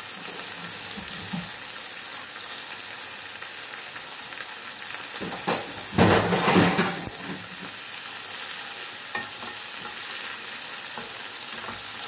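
Stuffed chicken paupiette and chopped shallot sizzling in oil and butter in a frying pan, browning. A louder burst of noise lasts about a second around the middle, and a wooden spatula stirs the pan near the end.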